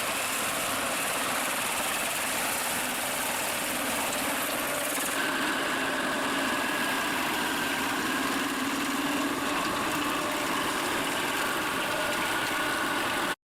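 Engine of a stump grinder running steadily, cutting off suddenly near the end.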